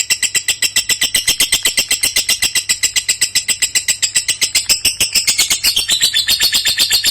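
Lovebird singing a long unbroken chatter of shrill chirps, about ten a second, with no pauses: the long-duration song that lovebird keepers prize.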